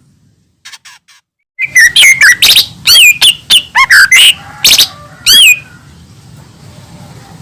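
Cucak ijo mini (a small leafbird) singing: after a short pause, a fast burst of loud, varied whistles, chirps and slurred sweeping notes that stops about two seconds before the end.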